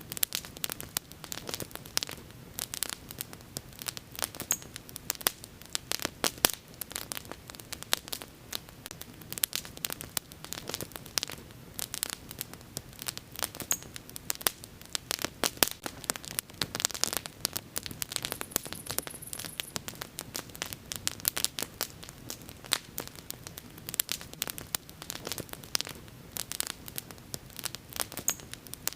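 Bonfire crackling: irregular sharp pops and snaps, several a second, over a steady soft hiss.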